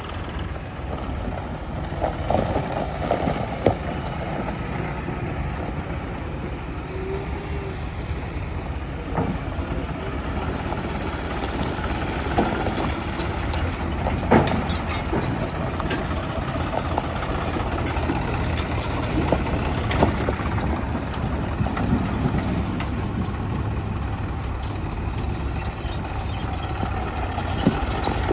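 Heavy diesel engines running steadily at an earthmoving site, with a sharp knock or clank every few seconds.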